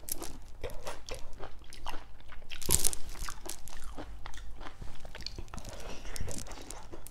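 A person biting and chewing crunchy food, with moist crackling mouth sounds and one louder crunch a little under three seconds in.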